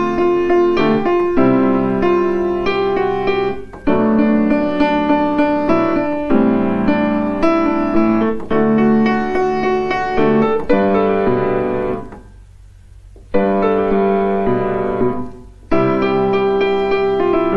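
Solo piano playing a slow piece in sustained chords. The playing stops for about a second roughly twelve seconds in, then resumes, with a short break again a few seconds later.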